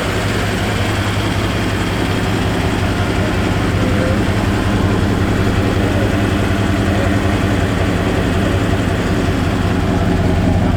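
Car engine idling steadily with a deep, even note.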